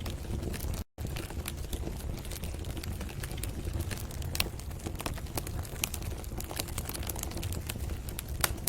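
Wood fire in a fireplace crackling, with irregular sharp pops over a steady low rumble of the flames; the sound cuts out completely for an instant about a second in.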